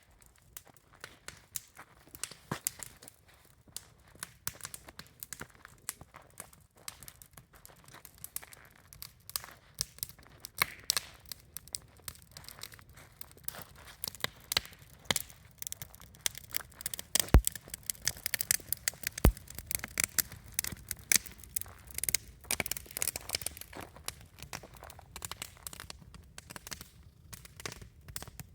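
Wood campfire burning, crackling and popping irregularly. The pops come thicker in the second half, with one louder snap about two-thirds of the way through.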